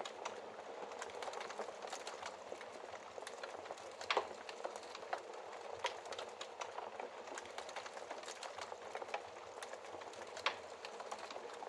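Wood fire burning in a fireplace: a steady hiss with constant small crackles and sharp pops, the loudest about four seconds in and again near the end.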